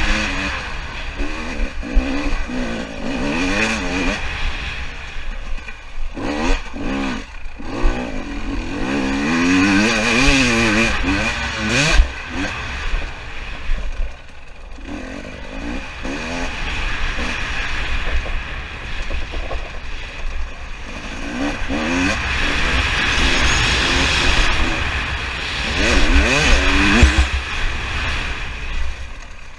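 300 cc fuel-injected two-stroke dirt bike being ridden on a motocross track, the engine revving up and down repeatedly as the throttle is opened and closed, with short eases off the throttle between pulls. A steady low rumble, typical of wind on the microphone, runs underneath.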